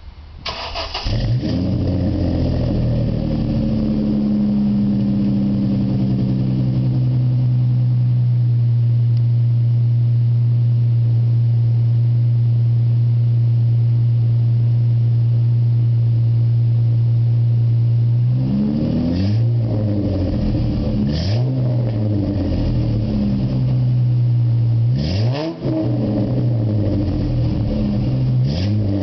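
Ford Mustang V6 through a cat-less exhaust with Flowmaster 40 mufflers and an H-pipe: the engine is started about a second in and settles into a steady idle. In the last third it is blipped several times, the pitch sweeping up and falling back each time.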